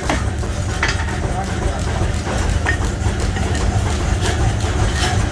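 Workshop machinery running with a steady low hum, with a few sharp knocks of metal, about four in all.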